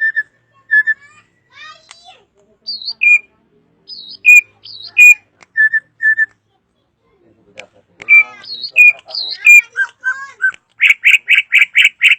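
Drongo singing: a varied string of loud, clear whistled notes and short calls with pauses between, breaking near the end into a fast, even run of repeated notes, about seven a second.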